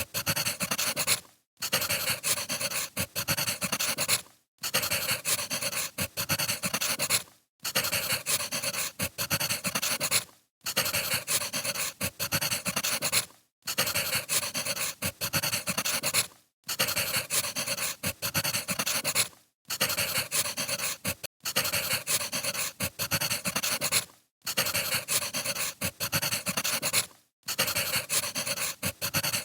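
Wood fire crackling, a dense run of small pops and hiss, broken by a brief drop to silence about every three seconds, as a short recording looped over and over.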